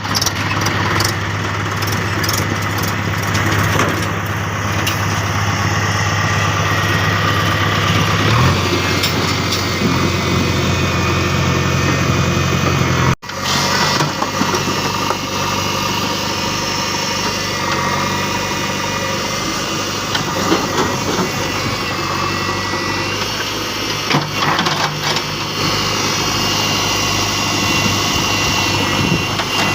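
Heavy-equipment diesel engines running steadily. The sound cuts out abruptly about 13 seconds in and comes back with a different engine tone.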